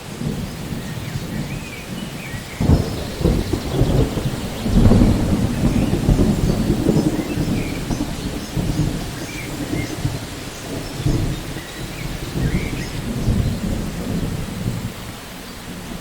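Steady rain with rolling thunder: a sudden crack about two and a half seconds in, then a long low rumble that swells around five seconds and rolls on in smaller waves before easing near the end.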